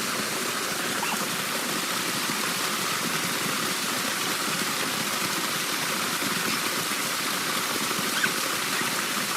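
Waterfall: a steady, even rush of falling water. A single brief tap about eight seconds in.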